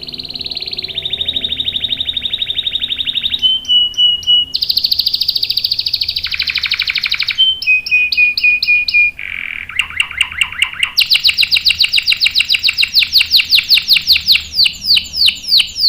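Domestic canary singing a long song, moving through several rolls: fast trills, short runs of repeated notes, and a dense high trill. In the second half it switches to a long, rapid run of repeated downward-sweeping notes.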